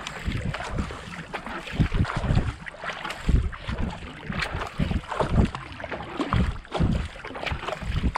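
Racing kayak being paddled hard at a steady race pace, the paddle blades catching and splashing through the water in a repeating rhythm of strokes, with wind rumbling on the microphone.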